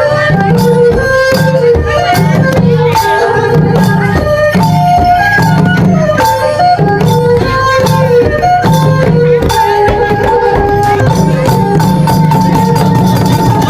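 Loud Khmer folk dance music for the Sadam dance: a lead melody moving in short steps over a steady beat of drums and jingling percussion.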